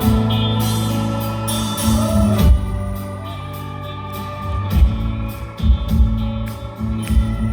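Live rock band music: sustained bass and guitar notes with cymbal washes, the drums striking more often from about halfway through.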